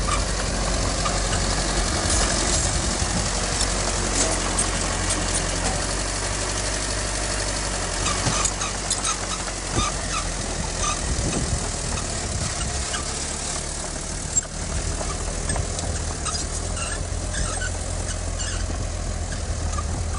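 Heavy diesel earthmoving machinery running steadily, with scattered metallic clanks and squeaks over the engine hum.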